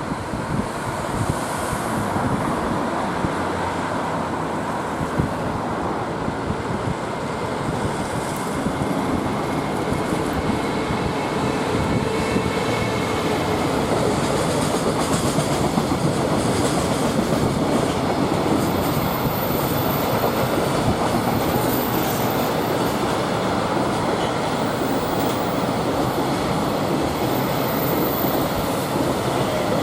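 Freight train of container wagons rolling past steadily, wheels clattering over the rail joints, with a faint wheel squeal at times.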